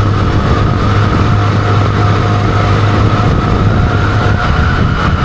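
Motorcycle engine running steadily at cruising speed, a constant low drone with wind rushing over the microphone.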